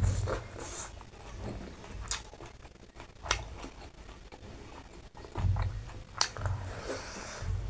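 A person chewing and eating, with wet mouth sounds and scattered sharp clicks, and a few soft low thumps.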